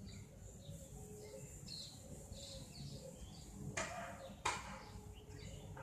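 Faint birds chirping in the background, with two short swipes of a duster wiping a whiteboard about four seconds in.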